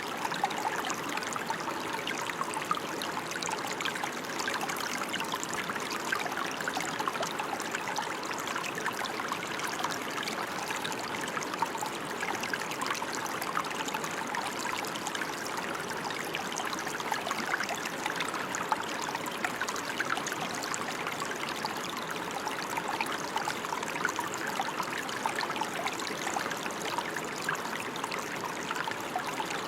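Steady rainfall, a dense even patter of many small drops.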